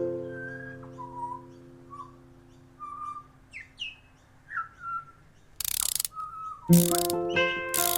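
A held music chord fades away while a handful of short bird-like chirps sound, some sliding down in pitch. Just before 6 s there is a brief rattling burst of noise, and then the background music comes back in with a loud chord and beat about 7 s in.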